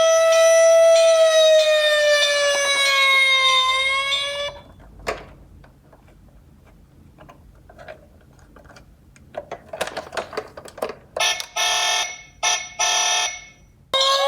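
Electronic siren of a toy emergency-vehicle minicar wailing with a slow rise and fall in pitch, cutting off about four and a half seconds in. Scattered light clicks and knocks follow, then a few short bursts of electronic tone near the end, and the siren starts again right at the end.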